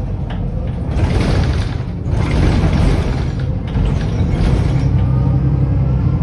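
Mercedes-Benz O530 Citaro bus with an OM906hLA diesel engine running with a steady low rumble. Two loud bursts of hissing, about a second and two seconds in, ring out over it.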